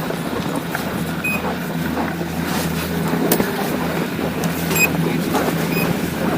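Ski lift station machinery running with a steady low hum and rumble. Three short high electronic beeps sound about a second in, near five seconds and near six seconds.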